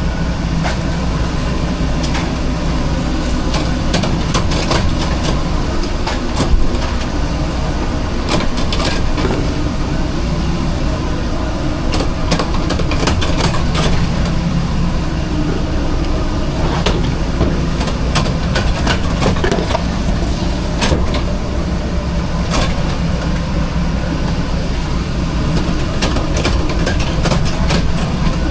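Steady low machine drone inside a food truck kitchen, with scattered clatter and knocks of prep work.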